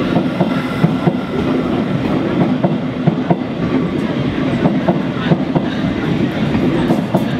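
Thameslink Class 700 electric train running along the platform: a steady rumble with many short clicks from the wheels over the rails.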